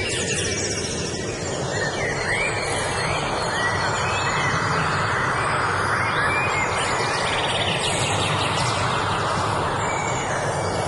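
Songbirds chirping and trilling over a steady rushing noise.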